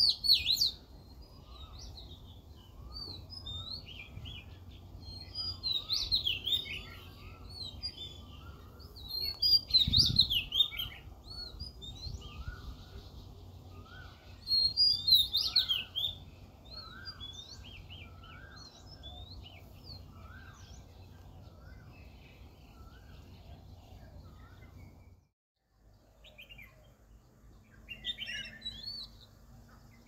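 Wild birds chirping and twittering, with louder bursts of song a few times. Underneath, a lower short rising note repeats about once a second, and a low steady rumble runs throughout.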